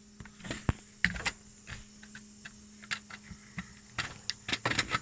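Scattered sharp clicks and knocks of hands handling parts in a car's engine bay, coming more often near the end, over a faint steady hum.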